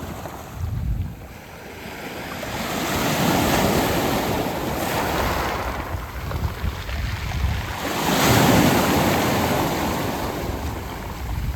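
Sea waves washing in over a beach of round pebbles, in two swells that build and fade, the first peaking about three seconds in and the second, louder one about eight seconds in.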